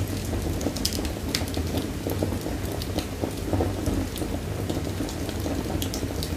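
Wood fire in a fireplace crackling, with irregular sharp pops over a steady low rumble of the burning fire.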